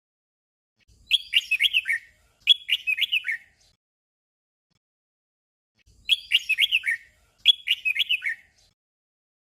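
Red-whiskered bulbul song: a short phrase of quick, falling notes given twice in close succession as a 'double', the pair repeated after a pause of about two and a half seconds.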